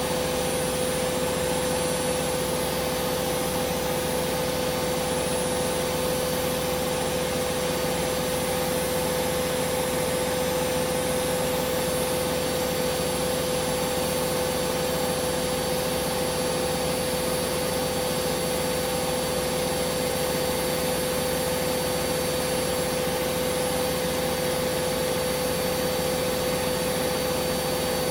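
Hoover Vision Dynamic washing machine spinning at speed: a steady, unchanging whine from the motor and drum, with a strong constant tone over a rushing noise.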